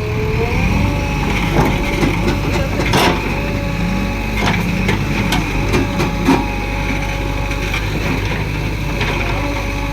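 Heavy diesel machinery running steadily, its engine tone rising a little about half a second in, with repeated sharp cracks and knocks over it, the loudest about three seconds in.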